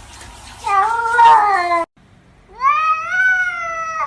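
Domestic cat meowing: two long meows, the first cut off suddenly, the second sliding up in pitch and then slowly falling.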